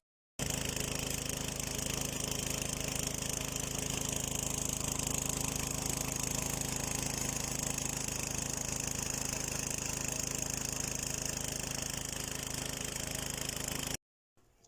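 Steady mechanical drone with a constant low hum and a strong hiss, like an engine running at an even speed; it starts and stops abruptly.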